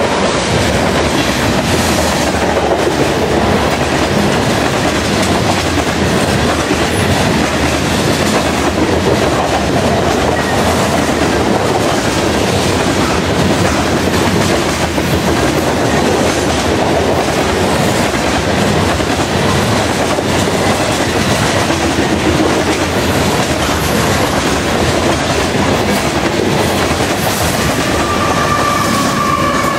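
Grain train of covered hopper cars rolling past at close range: a steady rumble with wheels clattering over the rails. A high squeal sets in near the end.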